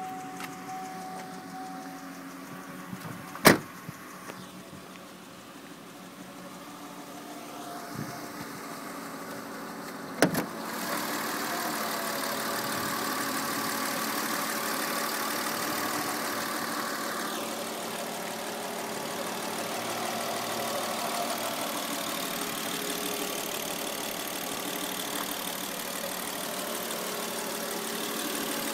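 A 1997 Volvo 960's 24-valve straight-six idling steadily, muffled at first, then louder and fuller from about ten seconds in, as heard from the open engine bay. A sharp click about three seconds in and a double click about ten seconds in stand out above the idle.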